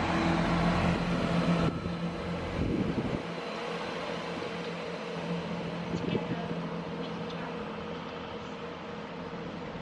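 Train running at a station platform: a steady engine hum that drops in level about two seconds in, with a short low rumble about three seconds in.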